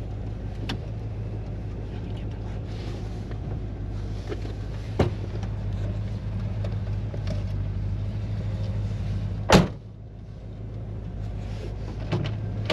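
1957 Chevy Bel Air idling steadily, with a few sharp clicks and knocks from inside the car; one louder knock comes about nine and a half seconds in.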